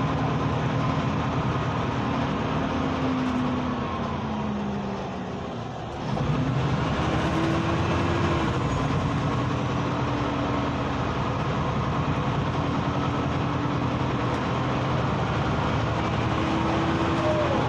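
2009 Hyundai New Super Aero City city bus engine running while the bus drives, heard from inside. The engine note falls over a couple of seconds and drops in level about six seconds in, then picks up again and runs steady for the rest.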